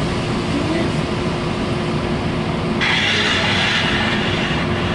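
Inside a passenger train car standing at a station: a steady low rumble with a constant hum. About three seconds in, a hiss starts suddenly and stops under two seconds later.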